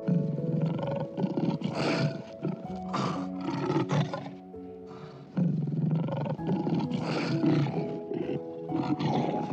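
Lion roaring in two bouts, the first at the start and the second from about five seconds in, over soft background music.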